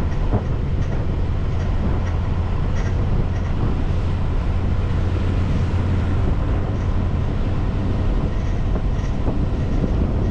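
A car driving on a snowy road: a steady low rumble of engine and tyres, with faint scattered ticks.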